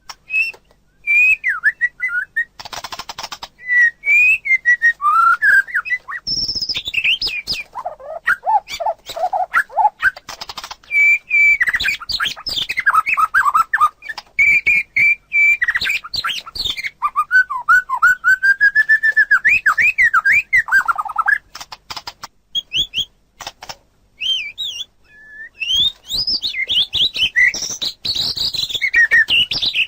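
Caged songbirds singing, the white-rumped shama and common iora of a birdsong recording: a long run of varied whistled phrases with rising and falling glides, quick trills and a few harsh scratchy notes, broken by short pauses.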